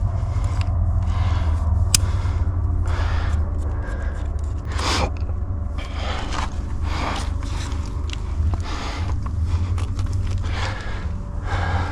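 A climber's body, clothing and shoes scraping and rubbing against sandstone while working up a chimney, in repeated scrapes every second or two, over a steady low rumble.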